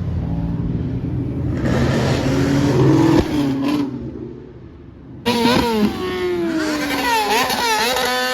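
Car engines revving, dropping away for a couple of seconds, then starting again abruptly with pitch rising and falling.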